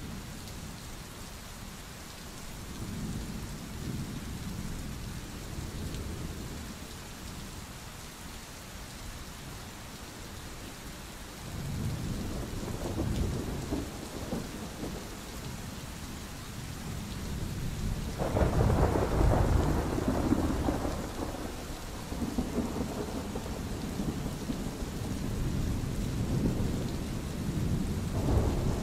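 Steady rain with thunder rumbling several times, rolling and swelling. The loudest peal comes about two-thirds of the way through.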